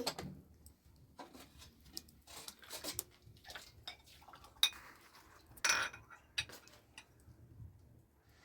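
Scattered clinks and knocks of dishes and utensils being handled, with louder clatters a little past the middle.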